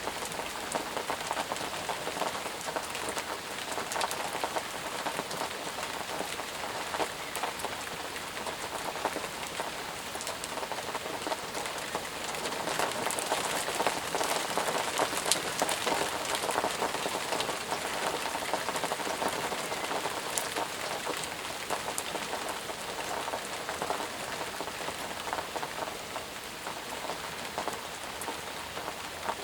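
Steady heavy rain, a dense hiss of falling water with many close drops pattering on surfaces.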